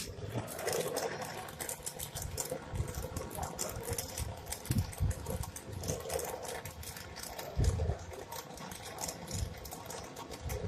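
Brazing torch flame hissing while refrigerant line joints on a refrigerator are brazed, with many small crackling clicks and a few low thumps.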